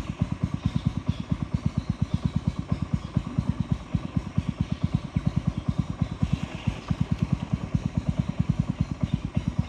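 Boat engine chugging steadily, a fast even beat of low exhaust thumps at about eight a second.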